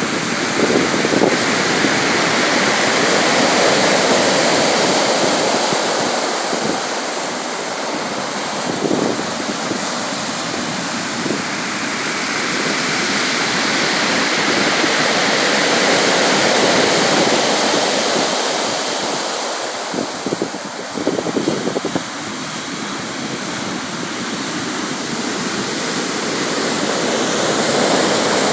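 Sea waves breaking and washing on a shore, a continuous surf roar that swells and eases slowly over several seconds. Some wind buffets the microphone.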